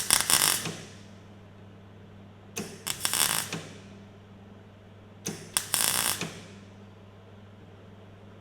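Welder tack-welding a sheet-steel patch panel in place: three short crackling welds, each under a second, about two and a half seconds apart.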